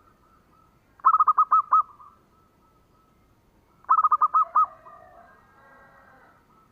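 Zebra dove (perkutut) cooing: two quick bursts of six or seven short, ringing coo notes about three seconds apart, with a fainter soft warble after the second burst.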